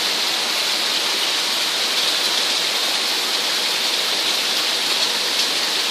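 Heavy rain mixed with hail coming down hard, a steady dense hiss without letup.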